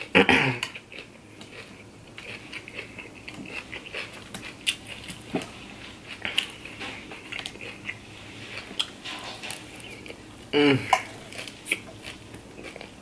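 Close-miked chewing of a crunchy shredded-cabbage salad, with crisp crunches and mouth clicks throughout and a fork scraping and clicking against a glass baking dish. A short hum at the very start and a wavering "mmm" of enjoyment near the end.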